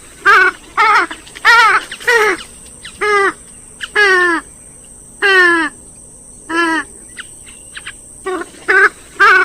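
Calls of a rail-family waterbird of the swamphen and moorhen kind, played back to attract birds: about eleven loud calls, each a note under a second long that slides down in pitch, some coming in quick pairs.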